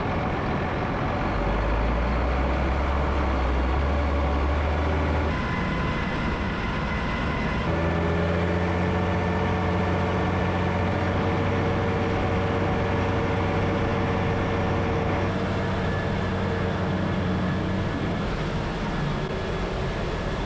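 Heavy farm machinery engines running steadily. The sound changes abruptly about five, eight and eighteen seconds in, as one machine gives way to another.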